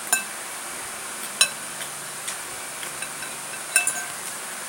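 Spoon clinking against a plate or bowl: a few sharp, ringing clinks, one near the start, one about a second and a half in and a pair near the end.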